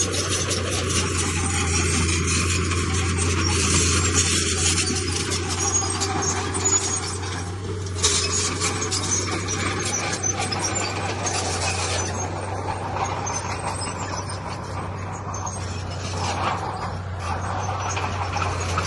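Heavy diesel earth-moving machinery running, a steady low engine drone under a dense rattle and scrape of metal and stone.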